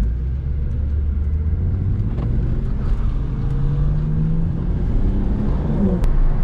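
BMW M240i's turbocharged inline-six heard from inside the cabin, accelerating: the engine note climbs steadily in pitch for about four seconds.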